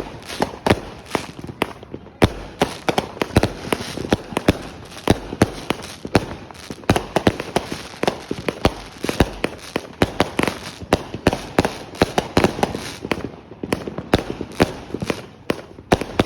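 Virus Alert 100-shot firework cake firing: a rapid, irregular run of sharp bangs, several each second.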